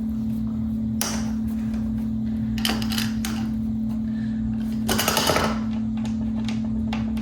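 Several short bouts of clicking and rattling from parts being handled, the longest a quick run of clicks about five seconds in, over a steady hum.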